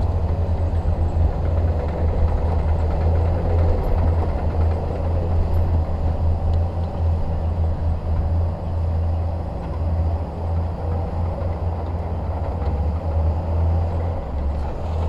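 Shantui DH17 bulldozer's diesel engine running steadily with a deep low hum.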